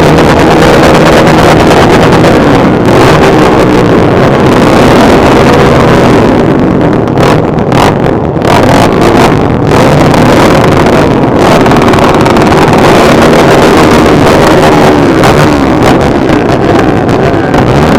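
Motorcycle engines running, with the pitch of the nearest engine rising and falling as the throttle changes, under heavy wind noise on the microphone.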